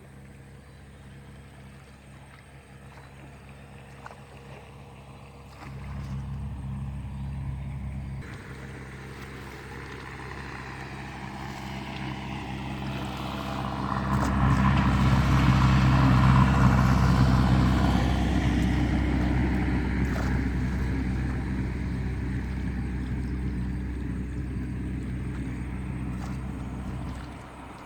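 A small engine running steadily, growing louder to a peak around the middle and then fading, as if passing close by, before dropping off suddenly near the end.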